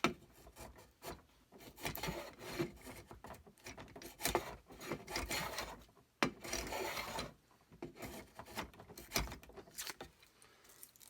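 Hand file scraping across a wooden rifle stock, taking wood down in a run of irregular strokes, some short and some longer.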